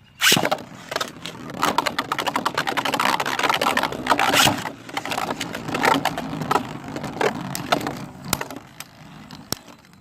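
A burst launcher fires with a sharp snap, then two Beyblade spinning tops rattle and clatter against each other in a plastic stadium in dense, rapid collisions that thin out after about seven seconds, leaving a few separate clicks near the end.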